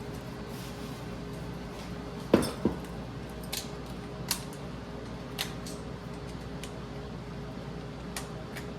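A few sharp metallic clicks and clinks of hand tools being handled, the loudest pair about two and a half seconds in, over a steady hum.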